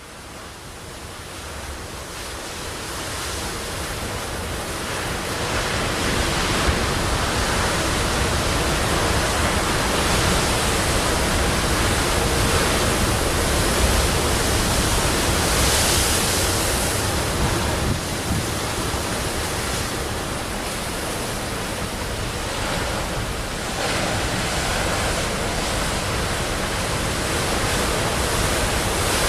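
Sea waves surging and breaking in a steady wash of surf. The sound fades in over the first few seconds and has a louder surge about halfway through.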